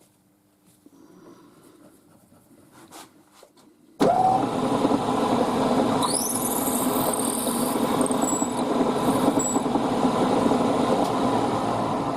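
A few faint clicks of parts being handled, then about four seconds in a milling machine's motor starts suddenly with a short rising whine and runs steadily. About two seconds later a high squealing whine rises in pitch and holds for a few seconds.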